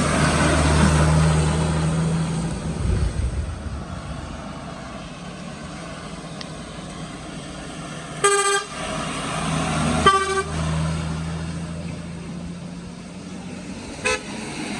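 Heavy vehicle engines running past on a road, with short horn toots about halfway through, again a couple of seconds later, and a brief one near the end.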